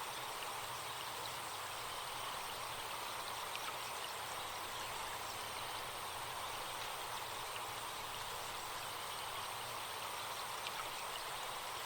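A forest stream flowing steadily, with faint bird chirps and insect buzzing in the background.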